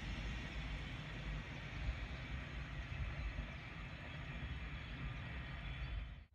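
A train running along the line with a steady low rumble. The sound cuts off abruptly near the end.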